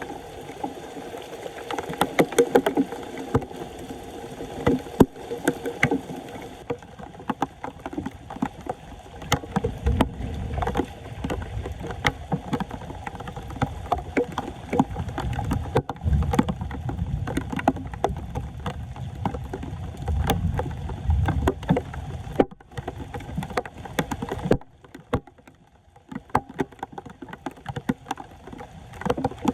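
Floodwater sloshing and splashing, with frequent knocks and scrapes as debris is cleared from a clogged storm drain. A deeper churning of the water comes in about a third of the way through and eases off some seconds before the end.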